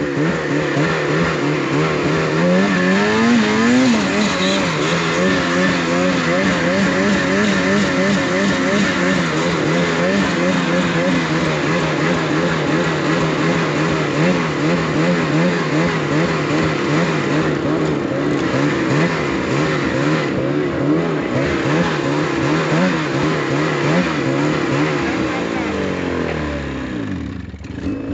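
Engine running hard under sustained load, its revs wavering up and down, as a dead snowmobile is hauled up a slope on a rope. The revs drop away just before the end.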